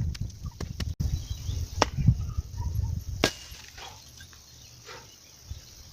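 A garden tool chopping into soil and roots, a few sharp strikes in the first half over a low rumble, then quieter.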